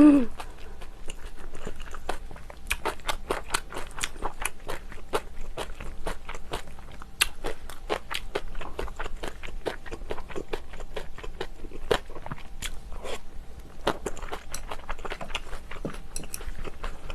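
Close-miked mukbang chewing: a person chewing a mouthful of crunchy food, with quick wet crunches and clicks several times a second.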